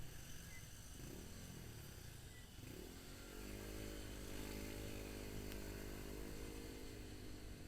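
Motorcycle engine running while riding, over a low rumble of wind and road noise on the camera microphone; about three seconds in its note rises and then holds steady.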